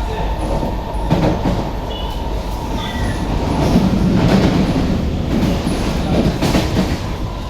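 SMRT C151B train running, heard from on board: a steady rumble of wheels on track with a faint steady whine and a few clicks, most likely as the wheels cross rail joints.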